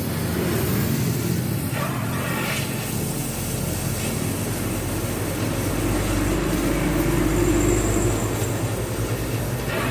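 Mitsubishi Canter truck's diesel engine running steadily through an aftermarket 'srigala' (wolf-sound) exhaust. A low, even drone is joined by a slightly stronger hum from about six seconds in until near the end.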